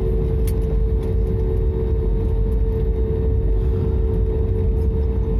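Airliner cabin noise after landing: a steady low rumble of the jet engines and airflow, with a constant hum running through it.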